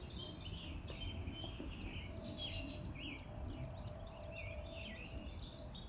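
Small birds chirping, many short overlapping calls, over a low outdoor rumble, with a faint steady hum through most of it.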